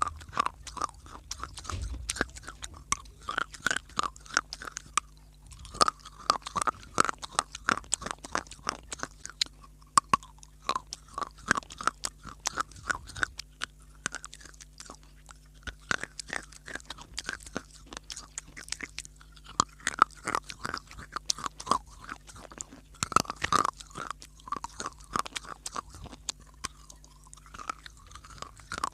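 Close-up chewing and crunching of hard baked clay (mitti): a steady run of crisp, irregular crackles, with a few sharper bites among them.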